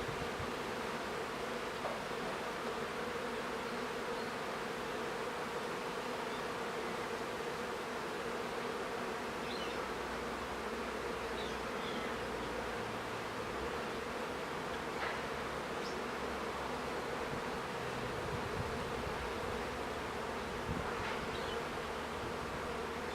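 Honeybee colony buzzing in a steady, dense hum, with a few faint short high chirps over it.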